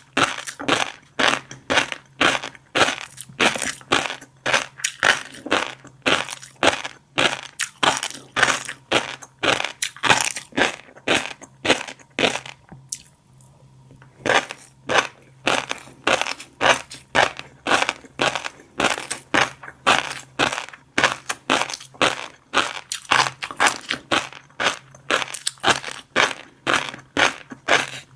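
Close-miked chewing of fish roe: a steady rhythm of crisp crunching, the roe eggs popping, about two to three chews a second, with a short pause near the middle.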